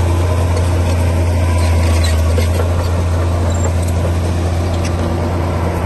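Komatsu D60P bulldozer's diesel engine running at a steady pitch, a deep, even drone with a few light clicks over it.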